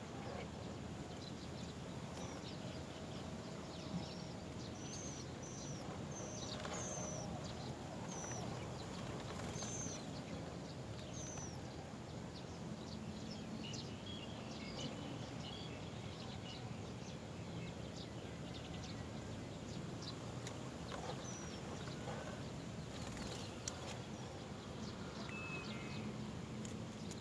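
Small birds chirping: a run of short, high, down-slurred chirps in the first half, then a few scattered fainter calls, over a steady low background noise.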